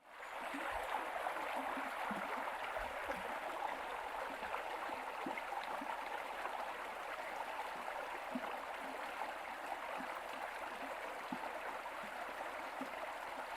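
Running water, a steady rushing wash that fades in at the start and holds even throughout.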